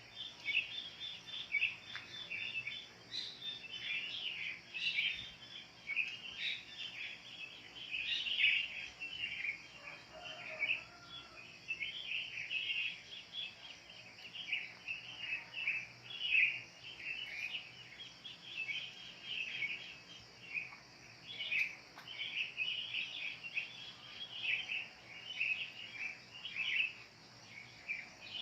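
A chorus of wild birds chirping: many short, quick calls overlapping without pause, over a steady high hiss.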